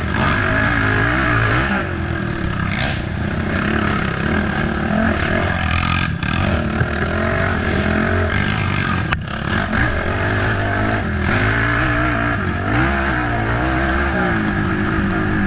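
Race ATV engine running hard under changing throttle, its pitch rising and falling continuously as the rider accelerates and backs off over rough trail, with the throttle briefly chopped about six and nine seconds in.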